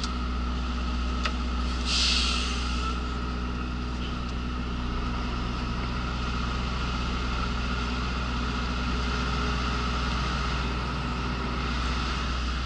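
Mercedes articulated lorry's diesel engine running steadily, heard inside the cab. There is a sharp click about a second in, then a short burst of compressed-air hiss from the air brakes.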